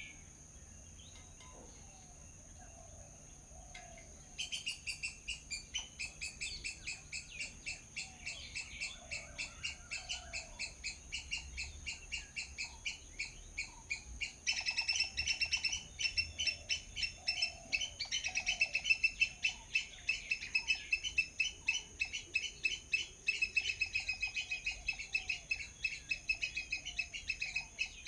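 Small birds chirping in a fast, regular series, about four chirps a second. The chirps start about four seconds in and get louder about halfway through.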